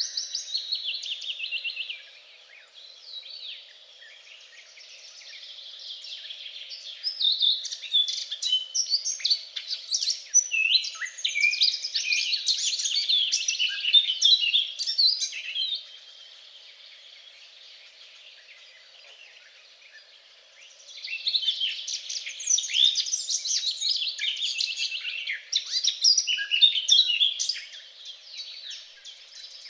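Several songbirds singing together in a lively chorus of rapid chirps and trills. The song swells loudly twice, about a quarter of the way in and again past the middle, and is sparser in between.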